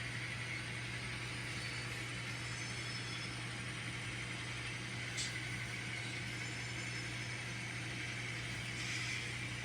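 Onboard sound decoders of N scale model SD40 diesel locomotives playing a steady diesel engine sound as the train runs, with a single click about five seconds in.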